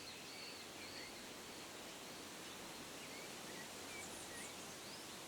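Faint birdsong: scattered short chirps and whistles over a soft, steady background hiss.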